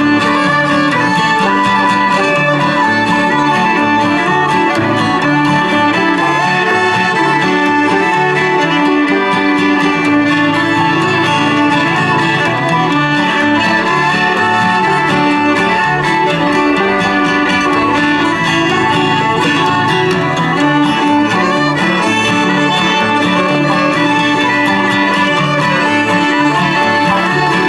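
Acoustic string band playing an instrumental old-time fiddle tune: two fiddles lead together over strummed guitar and banjo, at an even, steady loudness.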